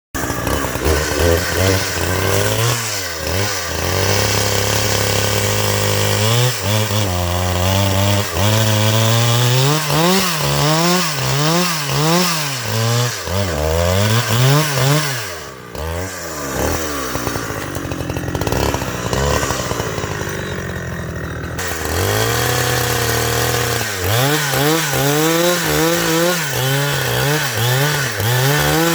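Chainsaw engine revving up and down again and again as it cuts wood. It settles to a steadier, lower speed for several seconds past the middle, then revs and cuts again.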